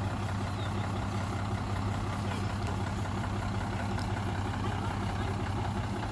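Heavy engine idling steadily with an even low hum.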